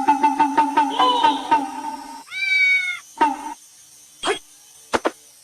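Domestic cat meowing: one long arched meow about two seconds in, then a shorter one. Before it comes a steady sound pulsing several times a second, and a couple of sharp clicks follow near the end.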